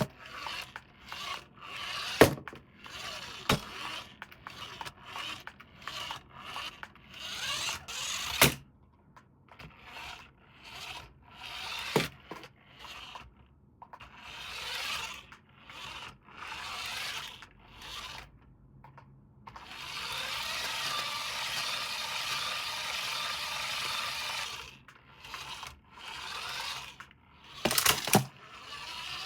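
Hands unboxing toys: packaging rubbed, scraped and torn in short strokes, with a few sharp clicks. In the second half there is a steadier rasp lasting about five seconds.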